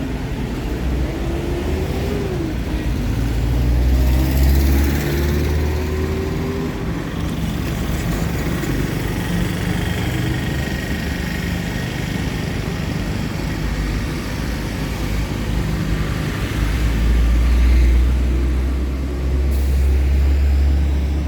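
Street traffic: motor vehicles passing close by, their engines rumbling, swelling about four seconds in and again near the end, with a short rising engine note early on.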